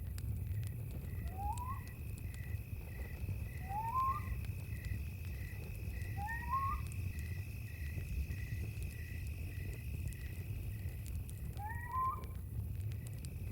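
Night animal chorus: crickets chirping in a steady pulse of about two chirps a second over a continuous high insect trill. An animal gives a short rising whistled call four times, a few seconds apart. A low rumble runs beneath, with faint scattered clicks.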